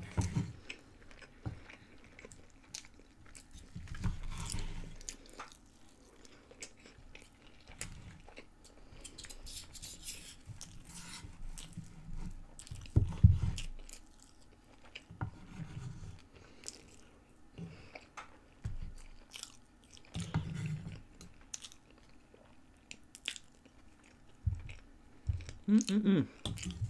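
Close-miked chewing and biting of chicken strips, in irregular mouthfuls, with the occasional clink and scrape of a knife and fork on a wooden board.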